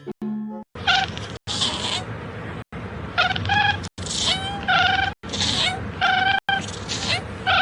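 A cat meowing over and over, a string of short calls about one or two a second.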